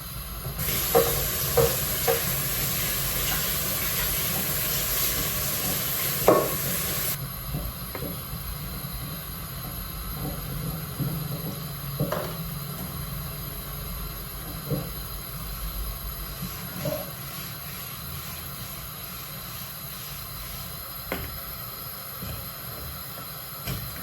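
Kitchen work sounds. A loud, steady hiss lasts about six seconds and cuts off suddenly about seven seconds in. After that there are scattered light knocks and clicks over a low hum.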